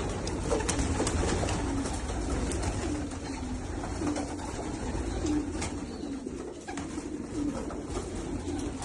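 Racing pigeons cooing: a steady run of low, repeated coos overlapping one another, with scattered light clicks among them.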